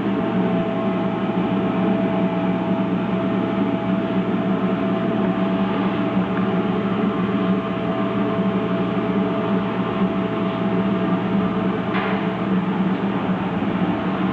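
Hexagon HG-805S high-frequency canvas welding machine running with a steady hum and a thin steady tone. The tone stops with a sharp click about twelve seconds in.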